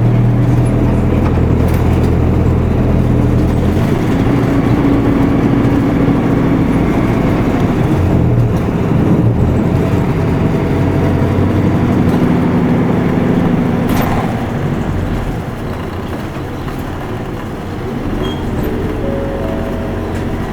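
Isuzu Erga Mio city bus's diesel engine heard from inside the cabin while driving. The engine note changes pitch several times, with a single sharp click about two-thirds of the way through. The engine quietens somewhat near the end.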